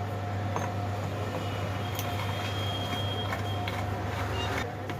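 A steady low electrical or mechanical hum, with a few light clicks scattered through it.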